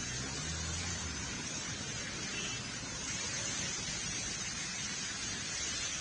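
Heavy rain falling, a steady even hiss, with a brief low hum underneath in the first second or so.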